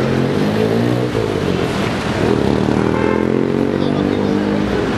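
Engine of a car passing close on a city street, its note climbing a little in pitch. It comes twice: briefly at first, then for about three seconds before fading near the end.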